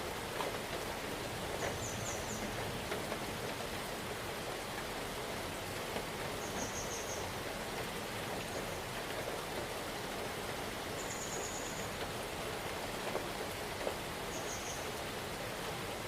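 Steady rain falling in a forest, an even hiss with scattered drop taps. Four short, high chirping trills sound at intervals over the rain.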